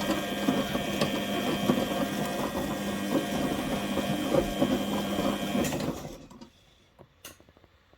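Washing machine's brushed drive motor running, turning the drum by its belt: a steady mechanical hum with a higher whine and a fine crackle. About six seconds in it winds down and stops within about half a second, leaving a low level with a few faint clicks.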